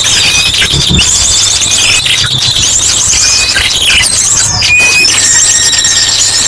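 Bird-lure recording: a loud, dense chorus of many small birds chirping and trilling high all at once, with short clear whistles; the mix includes ashy drongo calls. A steady high note comes in about three-quarters of the way through.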